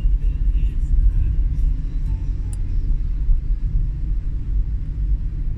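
Steady low rumble of a vehicle on the move, road and engine noise with no clear speech.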